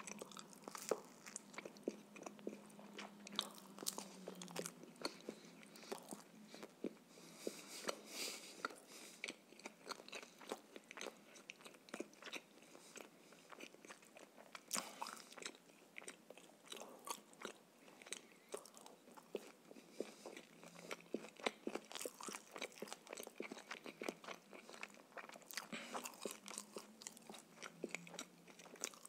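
Close-miked chewing and biting of a man eating a bread roll and grilled shashlik meat, with a dense run of small sharp mouth clicks and crunches.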